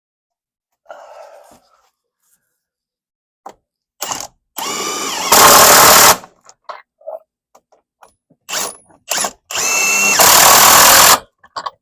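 Cordless impact driver running a lag fastener into the ledger board in two runs of about two seconds each. Each run spins up with a rising whine and then goes loud and steady as it bears down, with short trigger blips in between.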